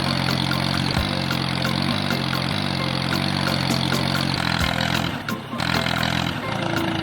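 An engine running steadily with a light rattle, its pitch shifting slightly a few times; it drops away briefly about five seconds in, then carries on more faintly.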